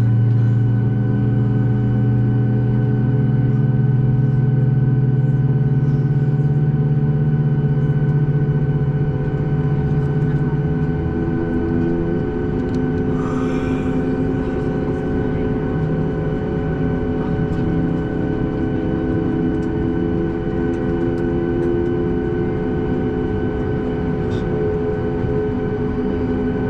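The CFM LEAP-1B turbofan engines of a Boeing 737 MAX 8 running, heard from inside the cabin as a steady drone and whine over a constant rumble. The low drone rises slightly in pitch over the first ten seconds or so, then settles.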